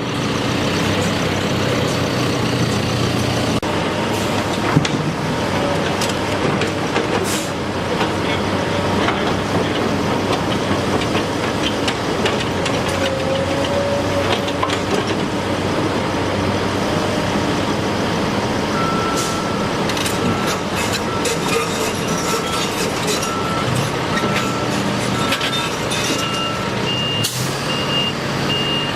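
Heavy construction trucks and machinery running steadily. In the latter part a reversing alarm beeps about once a second, and near the end a higher-pitched backup beeper takes over.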